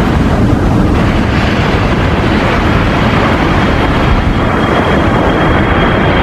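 Jet airplane engine noise: a loud, steady rush, with a thin high whine coming in about four seconds in.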